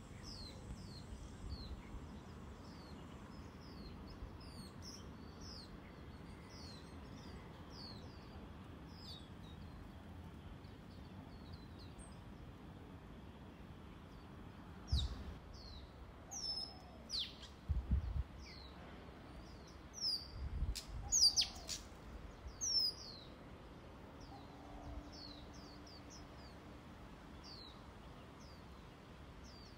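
Small birds chirping: a steady run of short, high, falling chirps, with a cluster of louder calls about halfway through. A few dull low thumps come in the middle.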